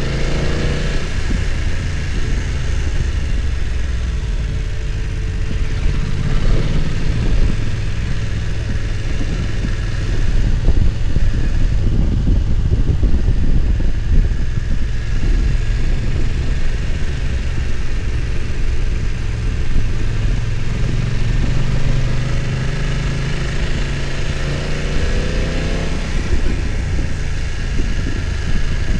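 BMW F900 XR's parallel-twin engine running steadily under way, with the revs sweeping up and down about a second in and again near the end.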